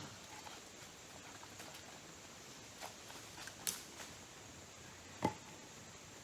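A few scattered light clicks and taps of camp gear being handled, likely tent stakes; the sharpest tap comes about five seconds in.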